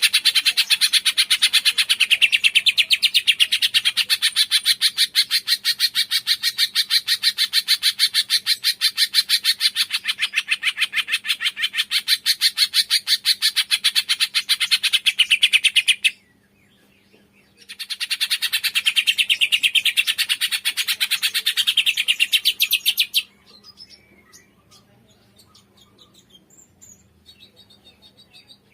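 A cungkok bird singing a fast, unbroken stream of high chirps for about sixteen seconds, breaking off briefly, then another shorter run, after which only faint scattered calls are heard.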